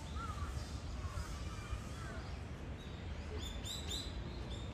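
Outdoor background with a steady low rumble and small birds chirping, with a quick run of high chirps about three and a half seconds in.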